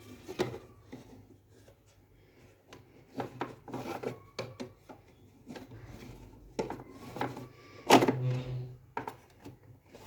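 Dust bag and plastic parts of a switched-off vacuum cleaner being handled and fitted into place: scattered knocks, rubbing and clacks, the loudest about eight seconds in.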